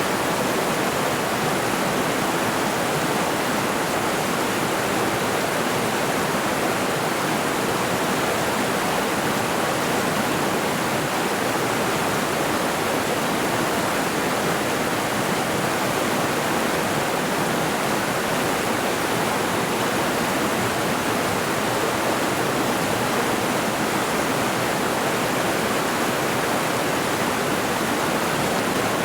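Mountain river rushing over rocks: a steady, even rush of flowing water that doesn't change.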